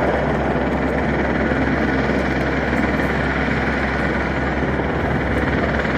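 Helicopter engine and rotor running steadily, a loud continuous noise.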